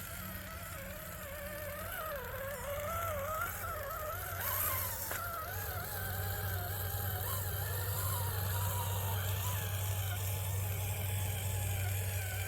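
Electric motor and gears of a radio-controlled scale crawler whining as it drives, the pitch wavering up and down with the throttle, over a steady low hum.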